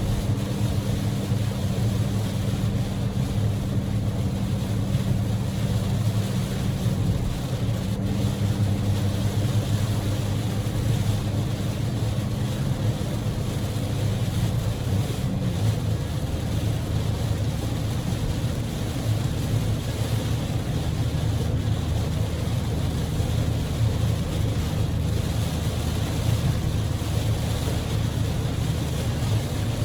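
Inside a Daihatsu Move L150S driving in heavy typhoon rain: the 660 cc three-cylinder EF-VE engine drones steadily under a constant wash of rain and tyre spray on the road. The engine note drops a little about halfway through.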